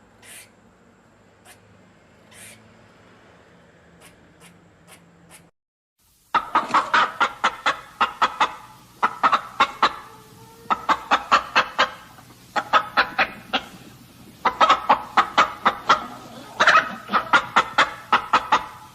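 Chickens clucking in loud runs of quick, sharp clucks, each run about a second long and repeating, starting about six seconds in after only faint background.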